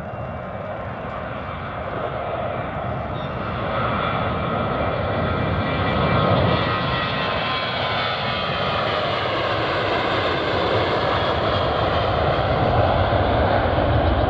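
Airliner's engines passing close by, growing louder over the first few seconds, with engine whine tones that slide down in pitch in the second half as the aircraft goes past.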